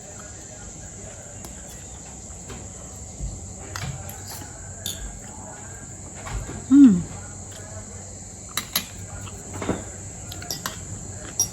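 Insects chirring outdoors: a steady high-pitched drone without a break, with scattered small clicks of eating and one short falling voice-like sound about seven seconds in.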